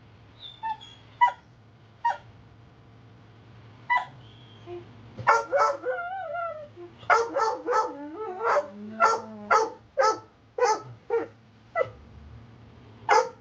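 Pit bull/boxer-mix dog barking in short, sharp, agitated barks. They are scattered at first, then come in a quick run of about two a second in the second half, with a wavering whine in between.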